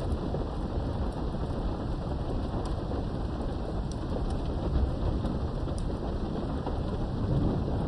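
Steady rain with a low, rolling rumble of thunder that swells twice, about five seconds in and again near the end. A few faint drop ticks sound over the rain.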